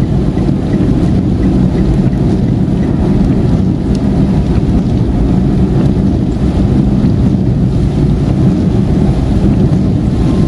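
Steady in-cabin noise of a car driving on a motorway in heavy rain: a low rumble of tyres and engine with rain on the car. A faint regular ticking sounds for the first few seconds.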